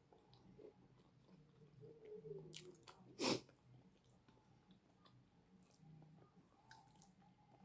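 Faint chewing and mouth sounds of a person eating a meal close to the microphone, with one short, louder sharp mouth sound about three seconds in.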